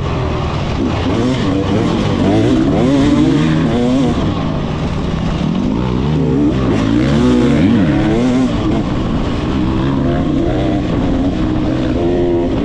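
Motocross dirt bike engines revving up and down on the track, several engine notes rising and falling and crossing one another.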